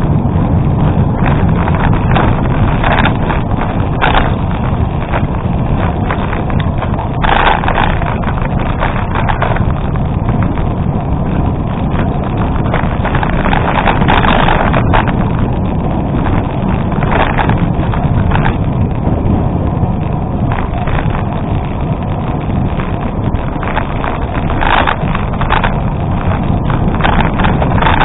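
Bicycle riding on a gravel road: a steady rumble of tyres on loose gravel with wind buffeting the microphone. Brief clatters and rattles of the bike over bumps come now and then.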